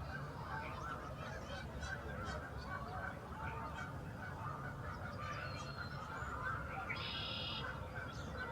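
A large flock of wild geese honking together in a dense, steady chorus of overlapping calls, with one brief, louder, higher call about seven seconds in.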